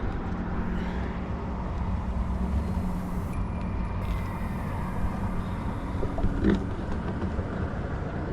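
Steady rumble of road traffic passing on the bridge, with a brief knock about six and a half seconds in.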